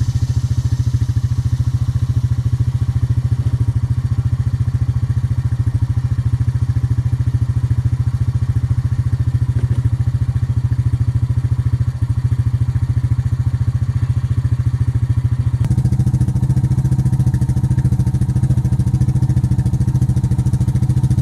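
A small engine running steadily at close range with a fast, even firing beat. About 15 seconds in its note becomes deeper and louder.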